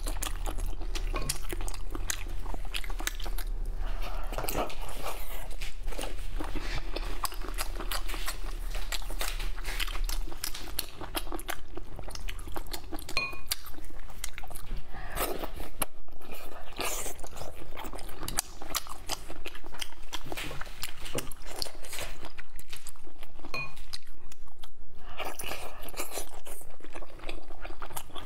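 Close-miked eating of slippery pork-skin jelly in chili oil: wet chewing, biting and lip-smacking, with squelching as the gelatinous sheets are torn and handled.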